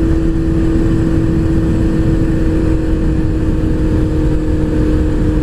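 Motorcycle engine running steadily at constant throttle, one unchanging drone, with wind and road rumble over the rider's microphone.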